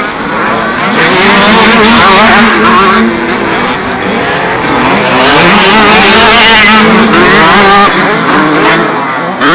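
Loud racket of several 65cc and 85cc two-stroke motocross bikes racing together. Their engines rev up and drop back repeatedly and overlap one another.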